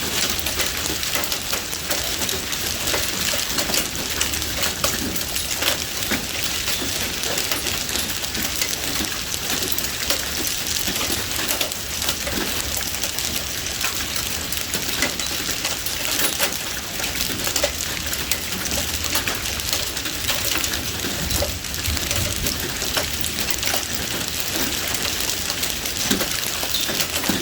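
Heavy rain falling steadily, with a dense patter of drops striking a hard surface.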